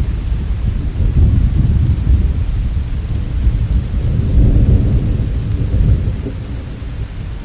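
Heavy rain with a low rolling rumble of thunder underneath, swelling around the middle and easing off near the end.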